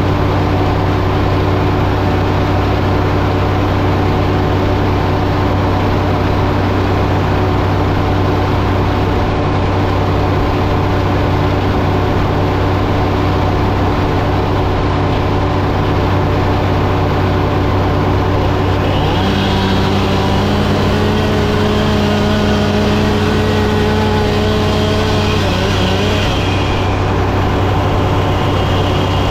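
Sawmill engine running steadily. About two-thirds of the way in, a higher steady whine and hiss join for some seven seconds, then drop away.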